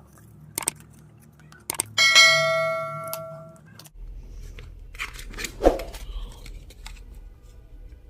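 A metal object is struck once about two seconds in and rings with a bell-like tone that fades over about a second and a half, among scattered clicks and knocks of parts being handled.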